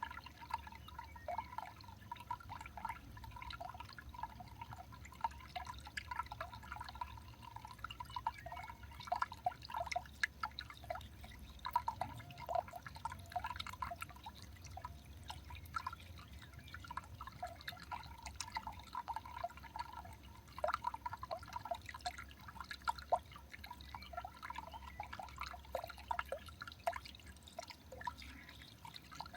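Water dripping: many quick, irregular drops, over a faint low hum.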